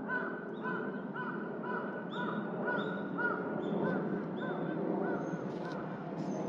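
A bird calling over and over in short, arched notes, about three a second, which stop about five and a half seconds in, over steady background noise.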